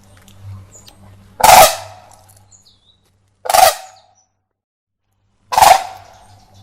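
Crane calling: three loud, rough calls about two seconds apart, over a faint low hum.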